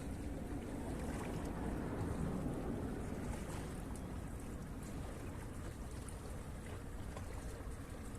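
Steady wind and sea noise with a low rumble on the microphone.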